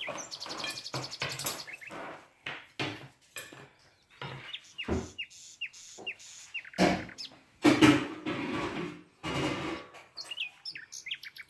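A small bird chirping again and again, in short falling chirps with a quick trill near the start, over knocks and clatter of dishes and a baking tray being handled.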